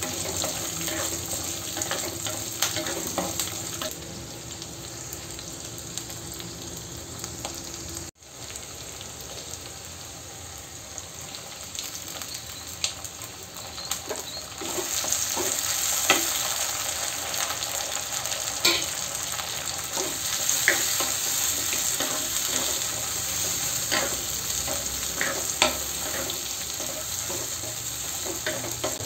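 Shallots, garlic and dried red chillies sizzling in sesame oil in a clay pot, stirred with a wooden spatula that taps and scrapes against the pot. Partway through, chopped tomatoes go in and the sizzling grows louder.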